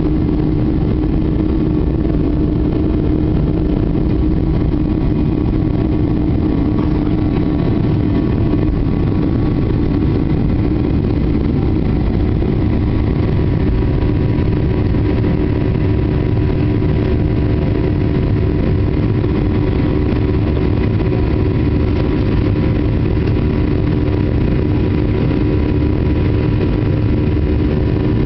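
Boeing 737-800's CFM56 jet engines running at a steady, even power with a constant hum and a steady drone. There is no spool-up or change in pitch.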